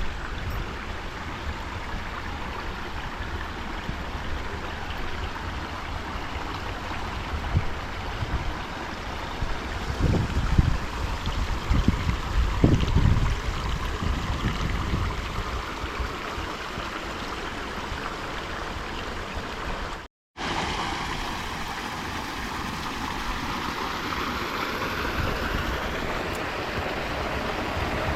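Shallow creek water babbling steadily over rocks, with a few low bumps near the middle and a brief gap in the sound about two-thirds through.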